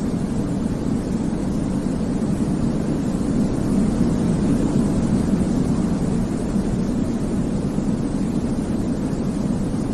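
Steady sleep noise, a deep, even rush weighted to the low end like a distant aircraft drone, with no change in level or pitch.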